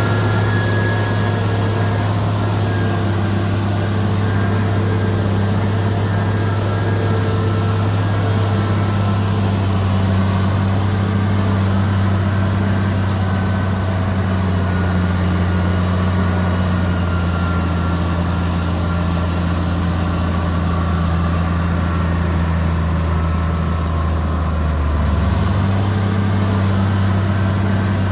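Heavy diesel engine of earthmoving machinery running steadily at a constant speed, its low note shifting slightly about 25 seconds in.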